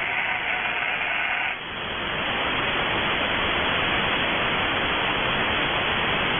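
Steady hiss and static from an RTL-SDR receiver in SSB mode, tuned to the QO-100 satellite transponder with no voice on the frequency. The hiss briefly dips and changes texture about one and a half seconds in.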